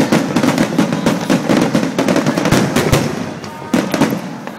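Aerial fireworks shells bursting in rapid succession: many sharp bangs overlapping with dense crackling, easing briefly about three and a half seconds in before a fresh volley.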